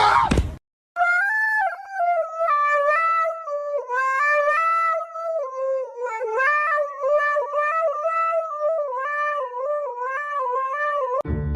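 A cat yowling: one long, wavering, drawn-out call lasting about ten seconds, starting about a second in, with only brief breaks.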